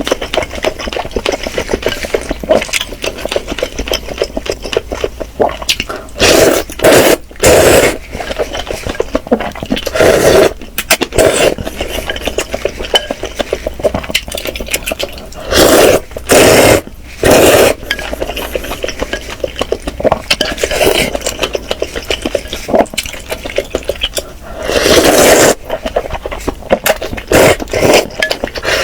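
Close-up eating sounds: steady wet chewing and crackling, broken by a dozen or so louder bursts of a second or less, with utensils clinking against a dish.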